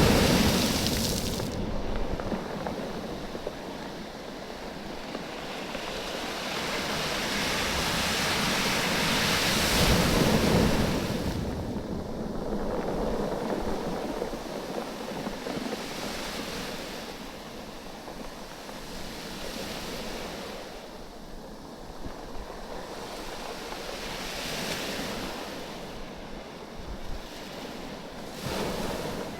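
Waves surging up a beach of oval cobblestones and draining back, the stones rolling and clacking against one another in the backwash. The wash swells and fades several times, loudest at the very start and again about ten seconds in.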